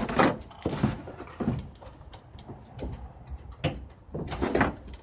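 Irregular knocks, bumps and scrapes as a heavy refrigerator is shifted and wrestled on a truck bed, heaviest near the start and again toward the end.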